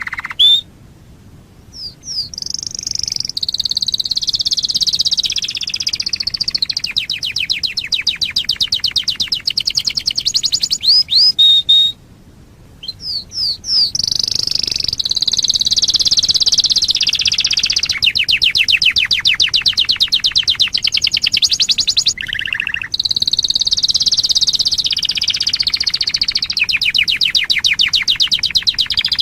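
Canary singing three long song phrases, each ending in fast rolling trills, separated by brief pauses of about a second.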